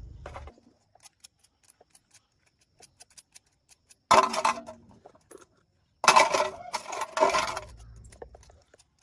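Metal objects clanking and clattering, with a ringing tone: a sharp clank about four seconds in, then a longer clatter of several strikes about six seconds in. A low rumble stops about half a second in.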